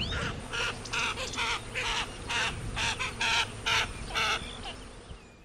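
A bird giving a series of harsh, raspy calls, about two a second, which stop near the end.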